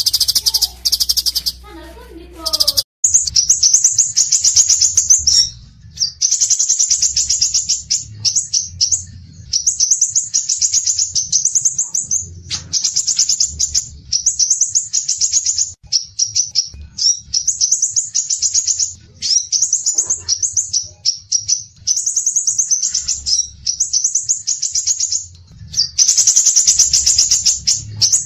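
Songbird singing rapid, high-pitched trilled phrases, each about two seconds long with short breaks between, over a faint low hum. The phrases start about three seconds in, after a short, different bird sound.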